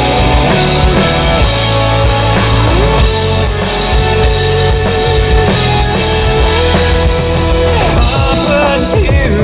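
Rock band playing an instrumental passage on drum kit, bass and guitars, with a long held note sounding through the middle.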